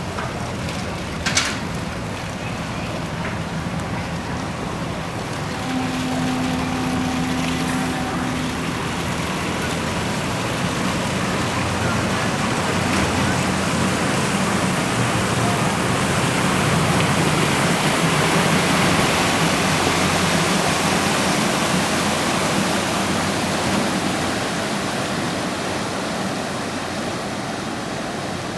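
Tourist boat's engine running low under a steady rush of churning water from its hull and propeller wash, as it pulls away from the dock. The rush swells to its loudest about two thirds of the way through, then eases. A faint steady tone sounds for a few seconds about six seconds in.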